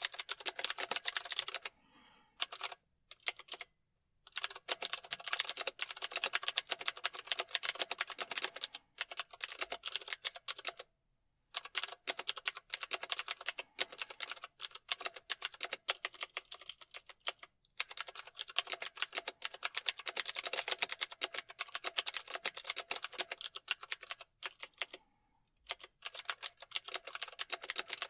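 Continuous typing on a computer keyboard: fast runs of key clicks, with a few short pauses between bursts.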